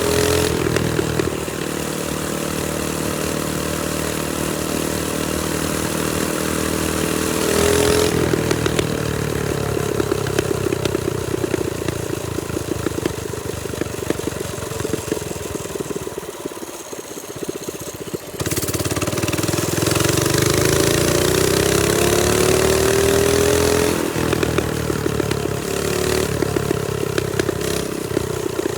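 TrailMaster Storm 200 minibike's 196cc single-cylinder engine running under way, its pitch climbing and falling with the throttle. About two thirds through it drops off briefly and quietens, as if throttle is off, then picks back up louder.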